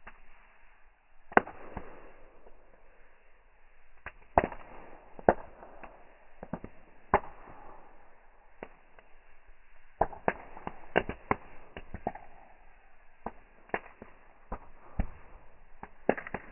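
Wood fire crackling: irregular sharp pops and snaps, some much louder than others, over a faint steady hiss.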